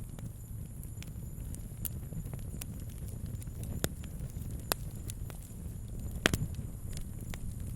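Wood campfire crackling: irregular sharp pops and snaps over a low, steady rumble, with a short cluster of louder pops about six seconds in.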